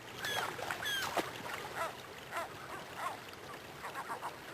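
Short animal calls repeated every half second or so, squeaky chirps that glide down in pitch.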